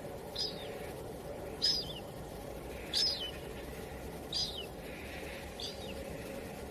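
A bird giving a short, high chirp that falls in pitch, repeated five times at an even pace of about one every second and a quarter, over a steady low background noise.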